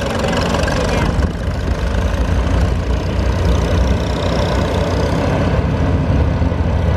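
Farm tractor engine running steadily with a low drone.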